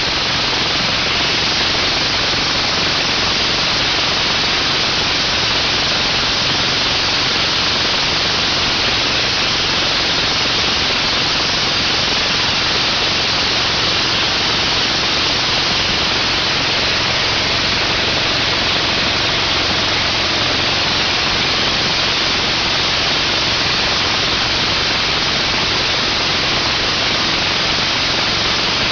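15 hp Kohler Command Pro air-cooled engine of a belt-driven 4,000 PSI gas pressure washer running steadily, heard as a loud, even hiss with little change in pitch. The owner calls it very loud and says the exhaust needs work.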